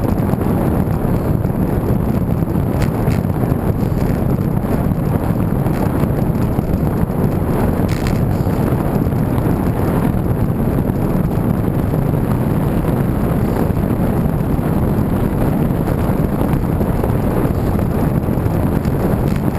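Steady wind rushing over the microphone of a camera riding on a moving bicycle, a low, constant rumble.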